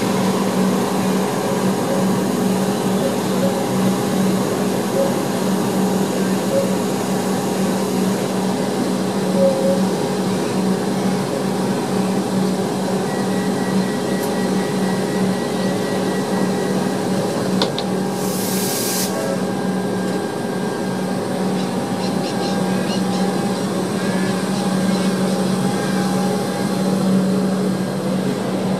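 Comeng electric suburban train humming steadily as it stands at the platform. About eighteen seconds in there is a short hiss of air, and near the end the train pulls away.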